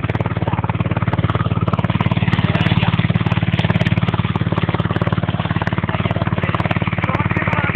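Ferry boat's engine running steadily with a fast, even chugging.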